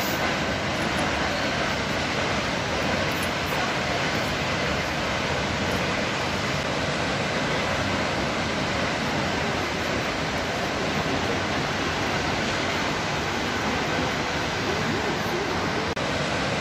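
Kegon Falls, a tall plunge waterfall in Nikko, giving a steady, unbroken rush of falling water.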